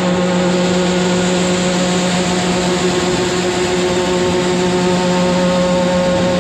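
A motor or engine running steadily at a constant pitch, with a strong hum and its overtones over a noisy rush.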